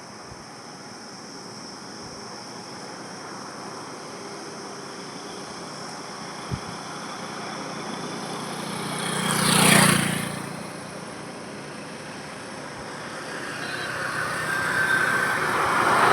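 Highway traffic: a vehicle approaches and passes close by about ten seconds in, its engine and tyre noise swelling and fading away, and another vehicle starts approaching near the end.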